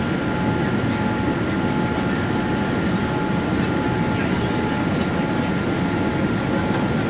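Steady cabin noise inside a Boeing 787 Dreamliner: an even, deep rush of engine and air noise with two faint, steady whining tones over it.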